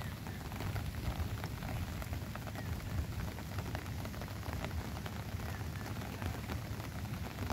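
Steady rain falling, a dense patter of many small drops over a low rumble.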